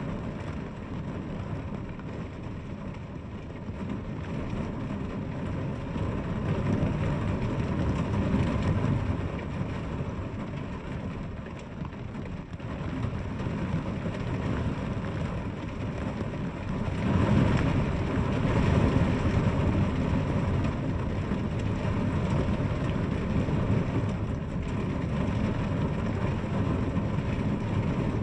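Steady heavy rain falling, a dense hiss over a deep rumble that swells louder twice, about a quarter of the way in and again just past halfway.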